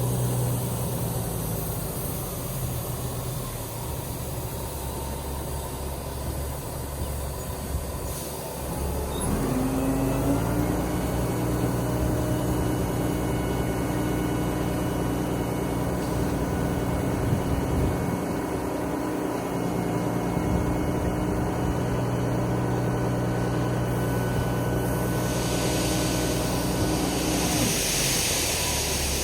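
Peterbilt 379 dump truck's diesel engine running steadily. About nine seconds in, the engine note rises in pitch and then holds. Near the end a hiss comes up and the engine note drops away.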